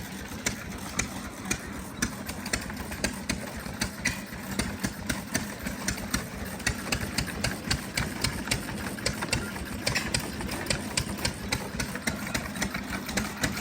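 Antique corn crusher with shaker-pan screens running: a steady mechanical hum under fast, uneven clicking and rattling.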